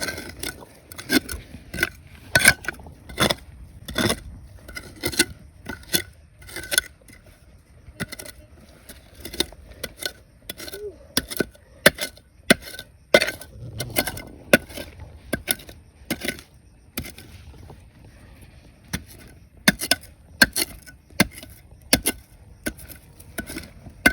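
Irregular sharp knocks and scrapes of a hand digging tool and stones against rock and gravel, about one to two a second, as a riverbed is dug through for gold.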